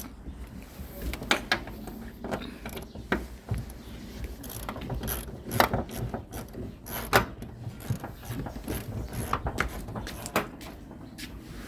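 Irregular metallic clicks and clanks of hand tools and steel parts being handled during rear shock absorber work, a few knocks standing out louder than the rest.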